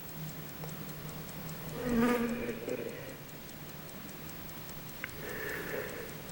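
Fast, even ticking, about four ticks a second, over a low steady hum. A short pitched sound, like a brief voice, comes about two seconds in, and a fainter one near the end.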